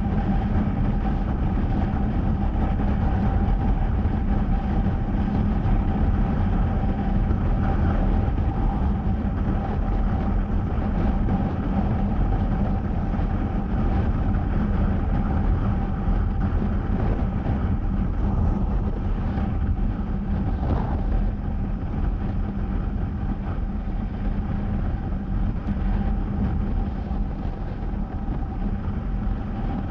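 Honda CBR250R's single-cylinder engine running at a steady pitch while riding, with steady rushing wind noise underneath.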